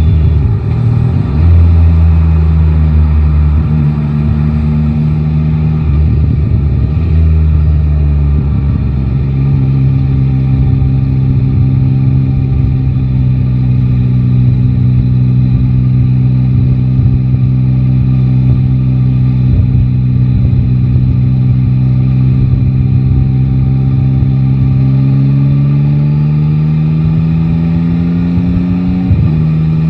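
Yamaha Tracer 9 GT's inline three-cylinder engine running under way: its pitch varies at first, then holds steady for a long stretch. It climbs as the bike accelerates near the end, then drops suddenly just before the end.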